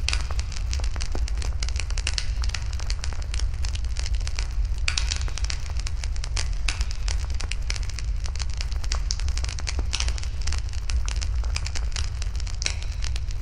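Wood fire burning, crackling and popping continuously at irregular intervals, with a steady low rumble underneath.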